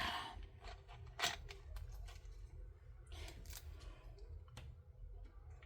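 Small plastic items and packaging being handled: a few scattered clicks and rustles, the sharpest click about a second in.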